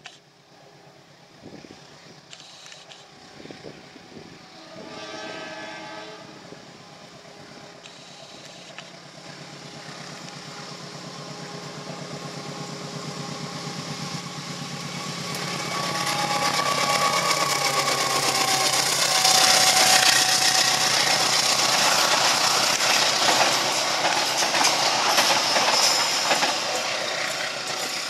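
Diesel-electric locomotive hauling a passenger train approaches and passes close by. A short horn blast sounds about five seconds in. The engine's running note and the wheel-on-rail clatter grow steadily louder, peaking as the locomotive and coaches go by.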